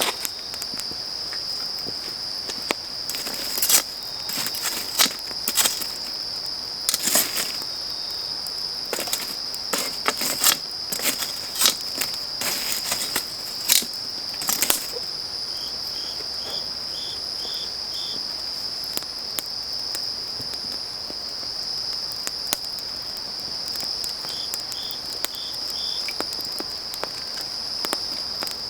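A steady, high-pitched chorus of autumn crickets and other grass insects, with a wood fire crackling and popping sharply through the first half. A second insect chirps in short runs of about six chirps, once near the middle and again near the end.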